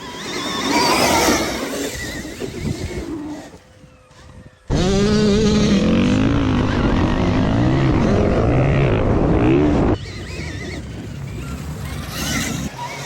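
Dirt bike being ridden, its motor pitch rising and falling with the throttle through the loudest stretch in the middle, in short edited clips that cut in and out abruptly.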